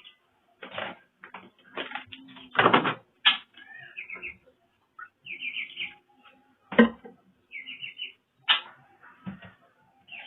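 A caged black-browed reed warbler giving short harsh chattering calls, over and over, mixed with loud sharp clatters of the cage and its cups.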